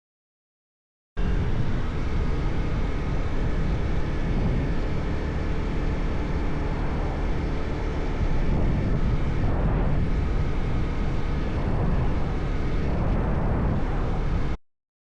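Motorcycle under way at road speed, likely a KTM 390 Duke: a steady rush of wind over the helmet microphone with the engine running underneath. It starts abruptly about a second in and cuts off sharply near the end.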